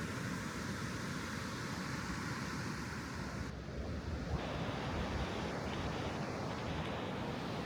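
River water rushing steadily over a rocky, stepped riverbed. About halfway through, the sound abruptly loses its high hiss.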